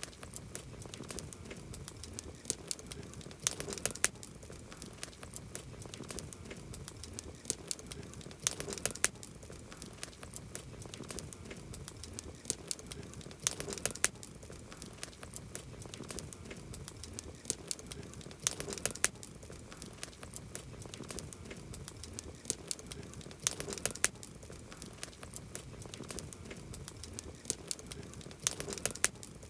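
Campfire burning, wood crackling and popping steadily over a low rumble, with a cluster of sharper, louder pops about every five seconds.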